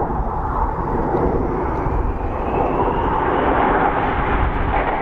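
Jet noise from the Red Arrows' BAE Hawk T1 jets flying their display: a steady, loud rumble, with a faint whine rising in pitch through the middle.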